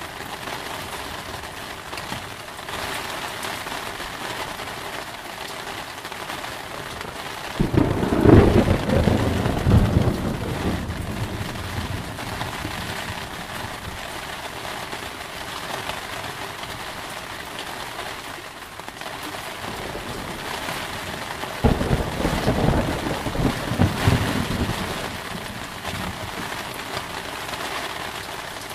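Steady rain with two rolls of thunder, one starting suddenly about eight seconds in and another about twenty-two seconds in, each rumbling for a few seconds before fading back under the rain.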